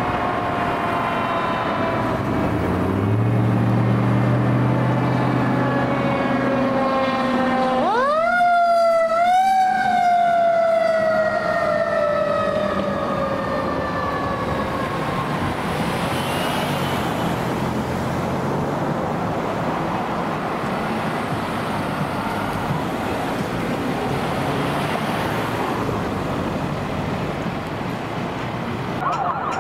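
Fire engine responding with its siren: a wail that falls slowly, low horn tones around the third to sixth second, then two sharp upward sweeps about eight seconds in that wind down slowly over several seconds. Road and engine noise follow, and a faster wavering ambulance siren begins at the very end.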